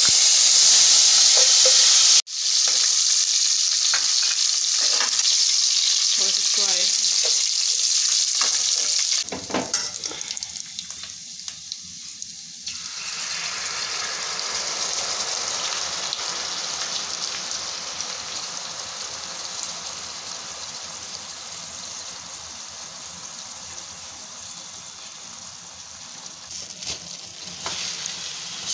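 Coconut slices and raisins sizzling in hot ghee in a steel pot as a spoon stirs them. The sizzle is loudest for the first several seconds, with a momentary break about two seconds in, then settles to a softer, steady sizzle and bubbling once strained jaggery syrup is poured in. It fades slowly toward the end.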